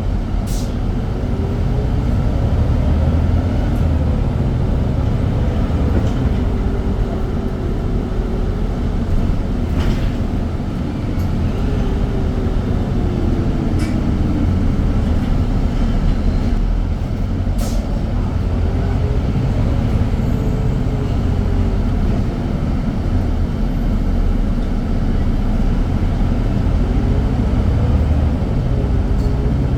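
Irisbus Citelis 10 diesel city bus running, a steady low engine and road rumble with a whine that rises and falls in pitch several times as the bus speeds up and slows.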